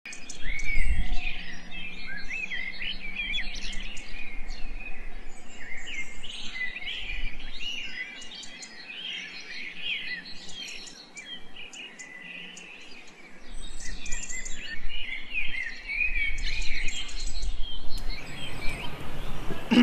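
Birds chirping and singing, a dense run of short, quick calls that overlap throughout.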